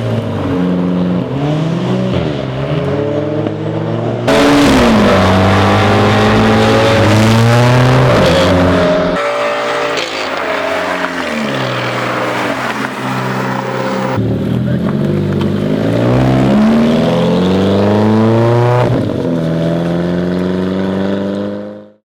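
Alfa Romeo 4C's turbocharged 1.75-litre four-cylinder engine revving and accelerating, its pitch climbing and falling again and again through the gears. It gets much louder about four seconds in, eases off about halfway, and the sound cuts off abruptly at the end.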